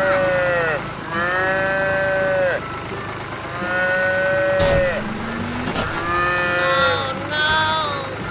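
Cartoon mooing calls, four long drawn-out moos in a row, each bending down in pitch as it fades. A short thump comes about halfway through, and there is some high twittering near the end.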